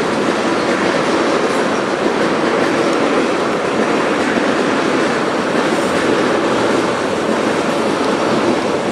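A freight train's cars rolling past on the rails, a steady, loud noise of wheels on track.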